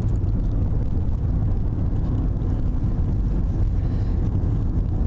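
Car cabin noise while driving: a steady low rumble.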